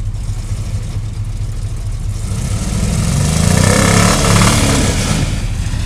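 Chevy mud truck's engine rumbling, then revving hard from about two seconds in, growing louder with a rushing hiss as it drives through mud, peaking near four seconds and easing off.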